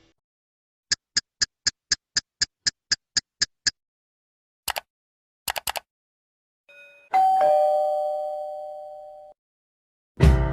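A string of separate sound effects. First comes a quick run of about twelve short beeps, then a few sharp clicks, then a two-tone doorbell ding-dong (a higher note, then a lower one) that rings out and fades over about two seconds.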